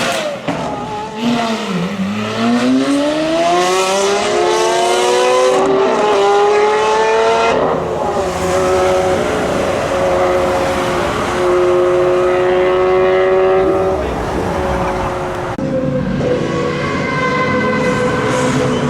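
Lamborghini supercar engine accelerating hard: the note climbs steadily for several seconds, then breaks at gear changes about seven and fourteen seconds in and holds a high, steady pitch between them.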